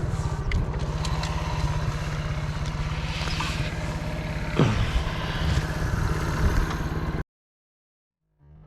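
Motorcycle engine running steadily with rapid, even firing pulses, with a brief falling whistle about halfway through. The sound cuts off suddenly near the end.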